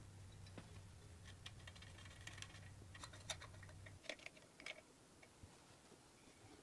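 Faint light clicks and taps of small objects being handled, over a low electrical hum that cuts off suddenly about four seconds in.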